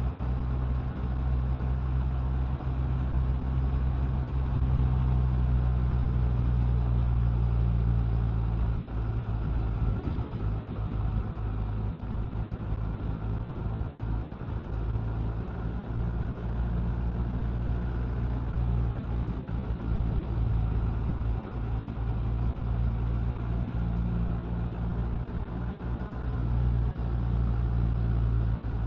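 Honda Gold Wing motorcycle riding at road speed, its engine running with a steady low drone under road noise.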